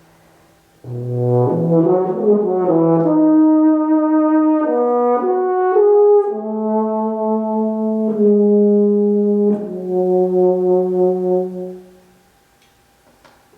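A solo brass instrument plays a slow, sustained melody over struck chords, one phrase of a few held notes that begins about a second in and fades out near the end, leaving a short pause.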